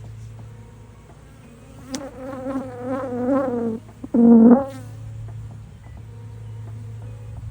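Honeybees from a swarm buzzing close by, over a steady low hum. A wavering buzz sounds for about two seconds, then one bee passes right by with a brief, louder buzz. There is a sharp click about two seconds in.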